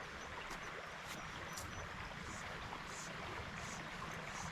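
Small trout stream flowing steadily: an even rush of moving water.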